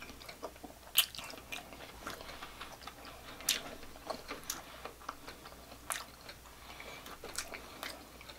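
Close-miked chewing of a piece of grilled sausage dipped in cheese sauce, with sharp wet mouth clicks and smacks, the loudest about a second in.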